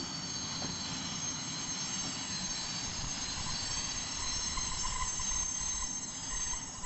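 Freight train wagons rolling past with a low rumble and thin, high-pitched wheel squeal.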